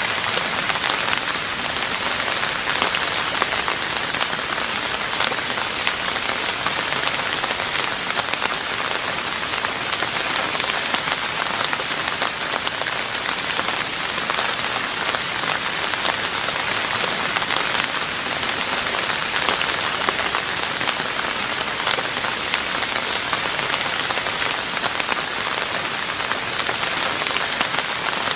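Steady rain falling on a roof: an even, dense patter of many drops that holds without a break.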